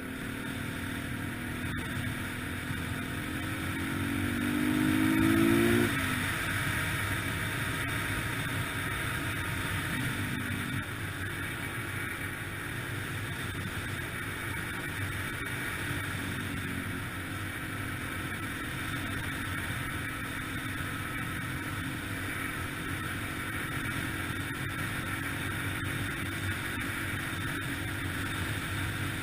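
Yamaha TTR-125LE dirt bike's single-cylinder four-stroke engine accelerating, its pitch rising for about five seconds, then dropping suddenly at a gear change. After that it runs fairly steadily at a cruising speed under a constant rushing noise.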